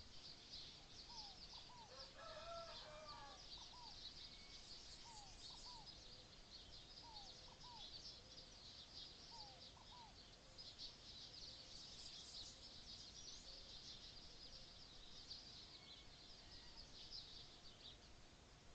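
Faint tropical forest ambience: a dense, high chirring chorus throughout, with a bird repeating short upward-sliding notes in twos and threes every couple of seconds, and a brief lower call with several tones about two seconds in.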